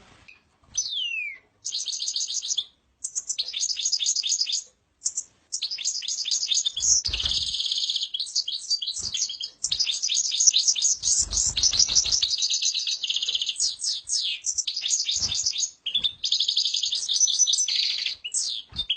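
A small songbird sings a long, fast, twittering song of quick high notes in runs with short pauses. A low rumble comes in briefly twice, about seven and eleven seconds in.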